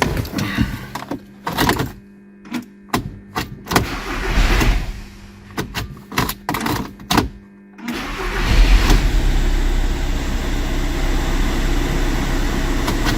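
A run of clicks and knocks, then about eight seconds in the Volkswagen Passat's diesel engine turns over and keeps going with a steady drone.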